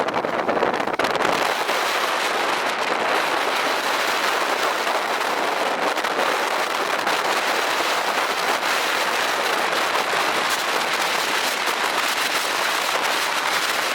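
Heavy wind-driven rain from a supercell thunderstorm's gust front: a steady, loud rushing hiss, thick with fine sharp hits of drops striking a surface.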